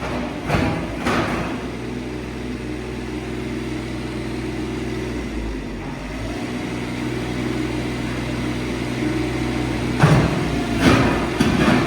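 Digger's diesel engine running steadily while it breaks out an old brick-filled trough, with sharp knocks and clatter of masonry about half a second and a second in, and again near the end.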